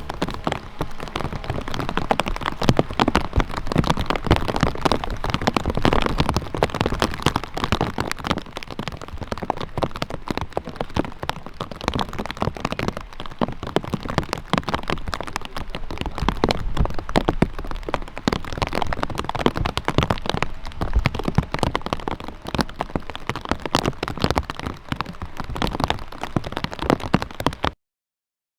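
Steady rain, a dense crackle of drops striking close to the microphone; it cuts off suddenly near the end.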